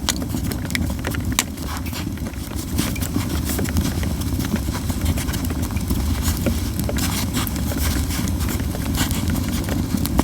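Yew-wood campfire crackling and popping, with dense irregular snaps over a steady low rumble of the burning fire.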